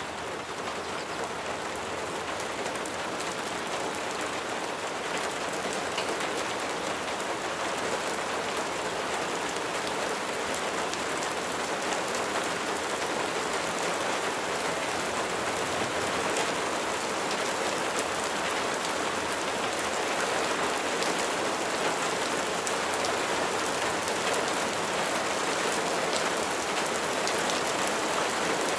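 Steady rain falling on a surface: a dense, even hiss of drops with fine ticks of single drops, growing slightly louder through the stretch.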